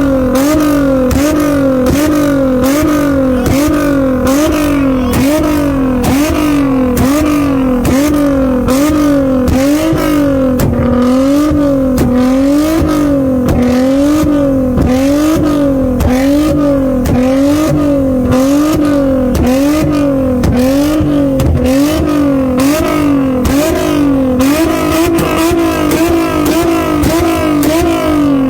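Infiniti G35 coupe's 3.5-litre V6 through a Tomei Y-back exhaust, held at high revs, its pitch rising and falling in a steady cycle about once a second, with sharp crackles throughout.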